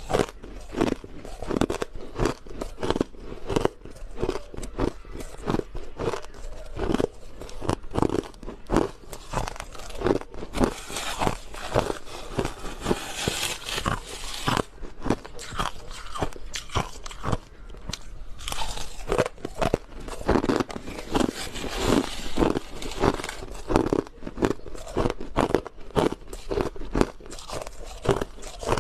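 Crushed ice being bitten and chewed close to the microphone: a steady run of sharp, crisp crunches several times a second, thicker and more hissing in two stretches near the middle and about two-thirds in.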